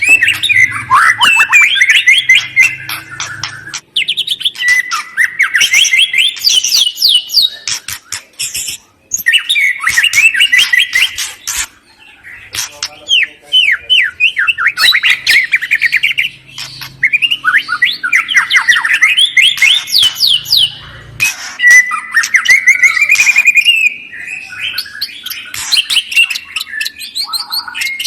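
A songbird singing loud, rapid trilled phrases, each a second or two long, with short breaks between them and sharp clicking notes among them.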